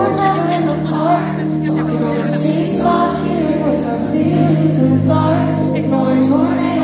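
Live concert music: a slow song with held chords and wavering singing voices.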